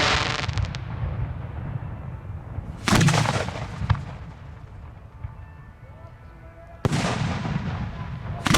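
Fireworks aerial shells booming close by: a loud report about three seconds in, a sharper crack about a second later, then two more booms near seven and eight and a half seconds, each trailing off in a rumbling crackle.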